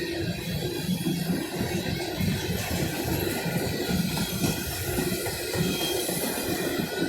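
Freight grain train rolling past, a dense, uneven low rumble of the train in motion.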